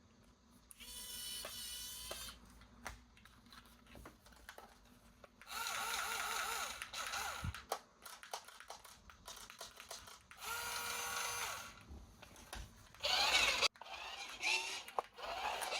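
Small electric motor of a remote-control toy whirring in short bursts, three times for about a second and a half each, with clicks and plastic handling between and after.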